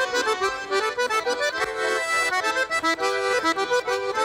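Accordion playing a lively Russian folk tune in short, rhythmic chords, an instrumental passage with no singing.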